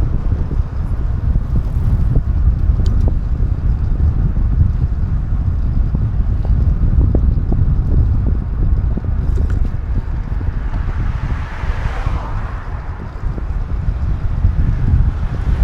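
Wind buffeting the action camera's microphone while riding: a steady low rumbling rush, with a hissing swell partway through.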